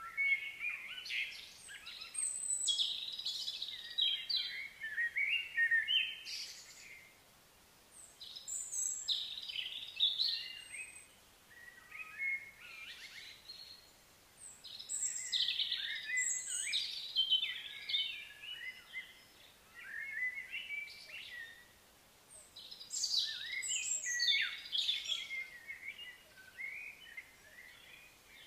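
A songbird singing long, varied phrases of quick high notes, in four bouts of about five or six seconds, each followed by a short pause.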